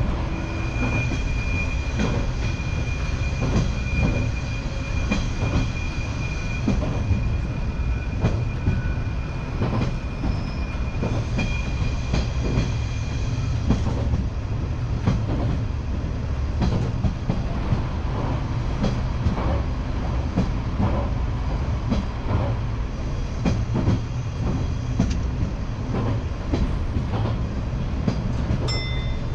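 Rail vehicle running along the track: a steady low rumble with repeated clicks from the wheels over the rail joints. A thin, steady high-pitched whine sounds through roughly the first half and then fades.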